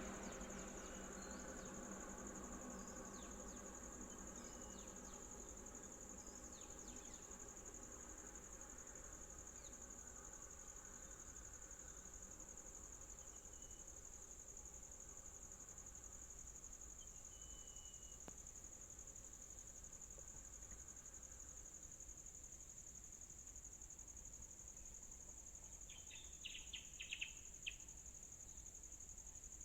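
Steady high-pitched insect drone of crickets or cicadas, with a faint engine hum underneath that fades away over the first twenty seconds. A few short chirps sound near the end.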